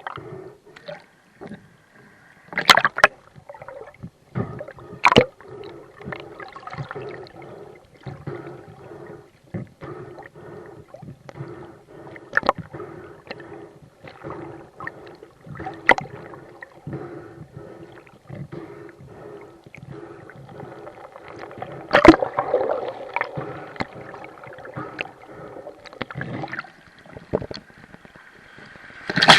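Rough sea water sloshing and gurgling around a camera in whitecap surf, with scattered sharp knocks and clicks; the loudest knock comes about twenty-two seconds in.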